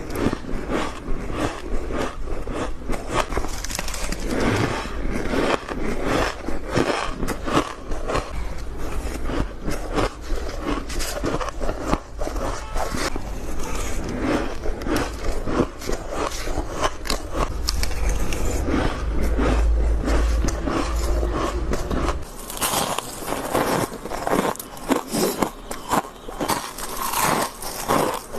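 Close-miked biting and chewing of white ice, such as freezer frost or shaved ice: a continuous run of crunching and crackling bites. A low hum underneath stops about two-thirds of the way through, and the crunches turn brighter and crisper after that.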